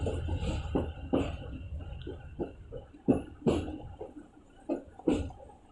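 Train wheels clacking over rail joints at low speed: paired knocks, about two to each joint, with a second or more between pairs, over a low running rumble that fades out.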